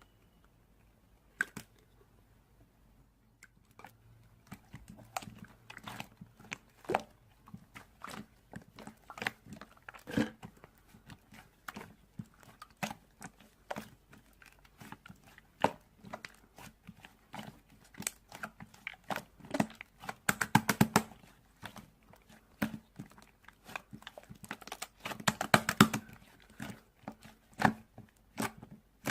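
Close, irregular crunching and crackling: a run of sharp clicks and crunches, with two dense flurries about twenty and twenty-five seconds in.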